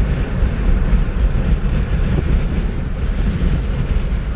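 Strong storm wind near a tornado buffeting the microphone: a loud, steady low rumble.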